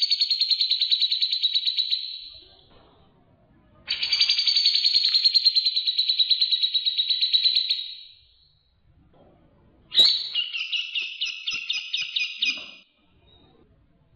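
Recorded songbird song of the kind used to train cage birds, drawn from cucak jenggot (grey-cheeked bulbul) and Eurasian tree sparrow: three long, rapid, high trills with short pauses between them, the last opening with a sharp note and going on in a slower, chattering pulse.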